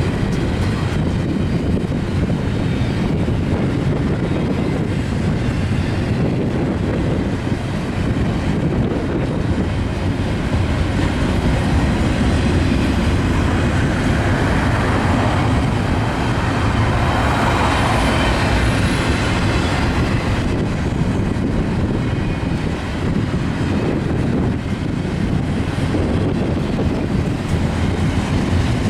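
Norfolk Southern freight train rolling past, the steady rumble and clatter of wheels on rail running on, with a brief brighter, hissing stretch about halfway through.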